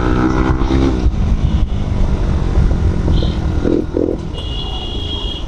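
Motorcycle engine running while riding, with a steady low rumble of wind and road noise. A thin high steady tone comes in near the end.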